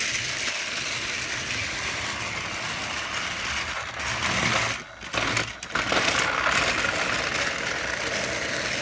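Small electric motor and gears of a toy train running with a steady whirring, ratcheting rattle, dropping off briefly about five seconds in.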